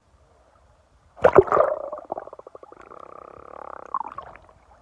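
Underwater bubbling and gurgling: a sudden gush of bubbles about a second in, then a rapid bubbling rattle and a muffled drone that fades out near the end.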